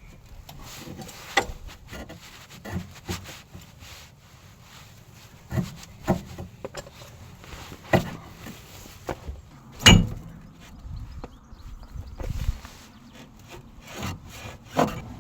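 Scattered metallic knocks and clanks of tools and car parts being handled during suspension and driveshaft work, irregularly spaced, the loudest about ten seconds in.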